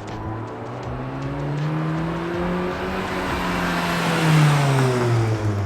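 Mk 7.5 Volkswagen GTI's turbocharged 2.0-litre four-cylinder, heard through a muffler-deleted custom cat-back exhaust, revving slowly up and back down, loudest about four seconds in.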